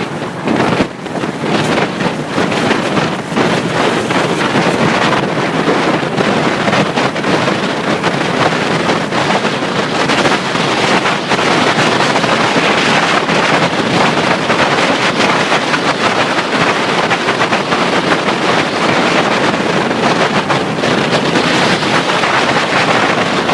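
Wind rushing over the microphone of a moving motorcycle: a steady, loud rush of air.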